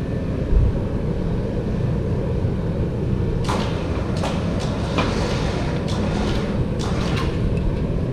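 Sharp metal knocks and clinks, about eight from roughly three and a half seconds in, as a tractor planetary gear part is worked loose on its spline, over a steady low drone.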